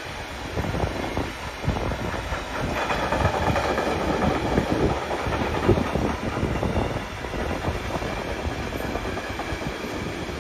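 A train passing at track level: steady wheel-on-rail running noise with repeated clicks and knocks from the wheels.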